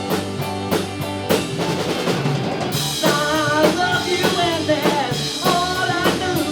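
Live rock band playing, with the drum kit to the fore: steady drum hits and a cymbal crash about three seconds in, over guitar and bass.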